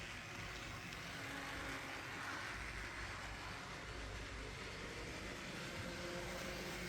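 Wuiske Models Queensland Rail 1720 class model diesel locomotive running steadily on the layout track: an even whir from its five-pole motor and drive, with the wheels rolling on the rails.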